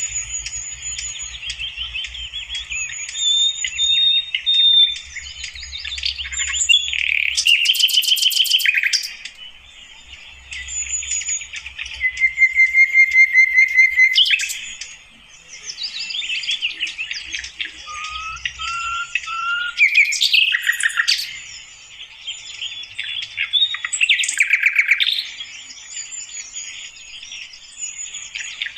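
Sikatan londo flycatcher singing: a long, varied run of quick high chirps, trills and short whistles, with brief lulls about ten and fifteen seconds in.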